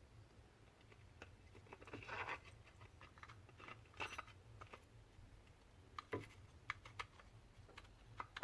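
Faint, scattered clicks and light taps of small grinder parts being handled and fitted by hand, with a brief scrape about two seconds in, over a low hum.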